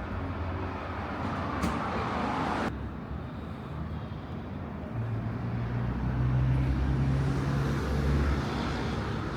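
Street traffic: a swelling rush of vehicle noise cuts off sharply just under three seconds in. About five seconds in, a vehicle engine's low steady hum comes in and fades after about three seconds.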